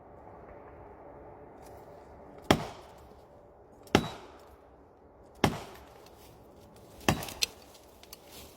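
Axe chopping wood: four sharp strikes about a second and a half apart, beginning about two and a half seconds in, with a lighter knock just after the last.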